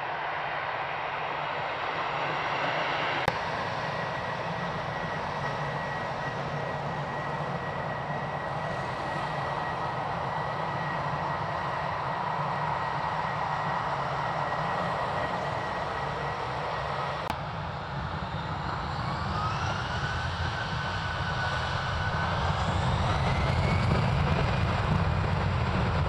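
Airliner jet engines running with a steady high whine. From about eighteen seconds in, the engines spool up, the whine rising in pitch as the sound grows louder: thrust being set for departure.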